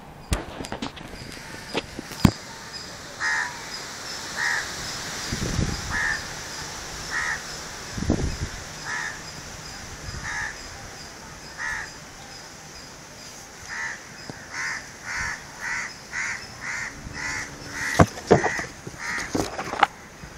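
A bird calling over and over in short calls, at first about one every second and a half, then quickening to about two a second in the last several seconds. A few sharp clicks and a couple of low bumps break in, the loudest clicks near the start and near the end.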